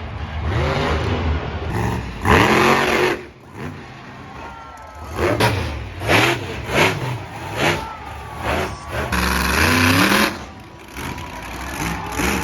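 Monster truck engine revving hard in repeated surges, its pitch sweeping up and down with each blip of the throttle.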